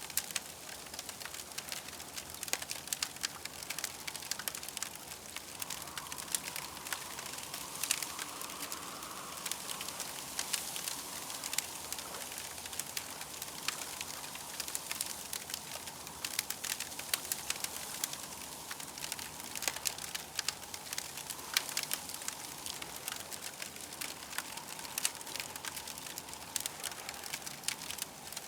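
Campfire crackling: a steady run of irregular small pops and snaps over a soft hiss.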